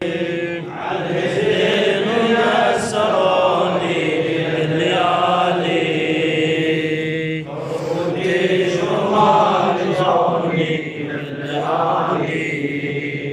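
A man's voice chanting an Arabic devotional lament (qasida) for Sayyida Zainab in long, drawn-out melodic phrases, with a short break about halfway through.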